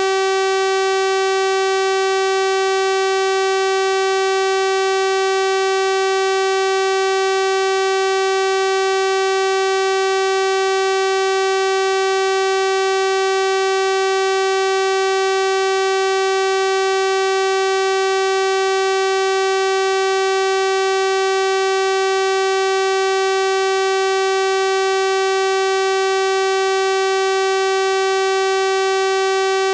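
Steady synthesized 384 Hz sawtooth-wave tone, a constant buzzy pitch rich in harmonics, held unchanged.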